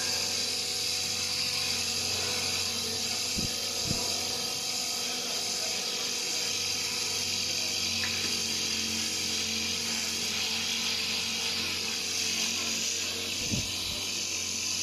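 Steady whirring of a power tool working on rubber, with a high hiss over a low hum and a few faint knocks.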